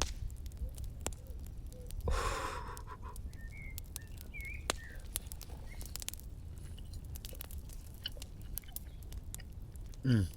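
Quiet outdoor eating sounds: scattered small clicks and crackles, with a brief rustle about two seconds in. A few faint bird chirps come a little later, and a short breathy vocal sound comes near the end.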